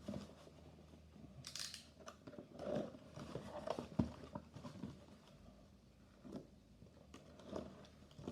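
Faint handling of packaging: scattered light clicks and taps, with a brief crinkling rustle about a second and a half in.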